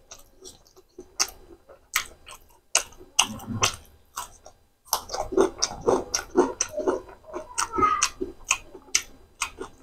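Close-miked mouth sounds of a man chewing spicy macaroni eaten by hand: wet smacks and clicks in quick succession. About three to four seconds in he bites into a raw green bell pepper ring, followed by steady crunchy chewing that grows busier through the second half.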